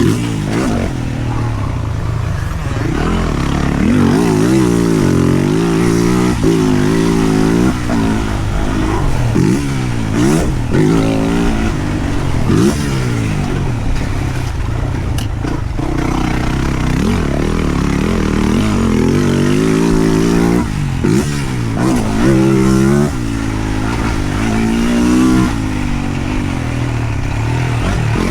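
2023 Yamaha YZ450F's 450 cc single-cylinder four-stroke engine being ridden hard on a motocross track. It revs up and drops back again and again, with its pitch climbing in repeated sweeps as the rider accelerates, then falling as he shifts and backs off.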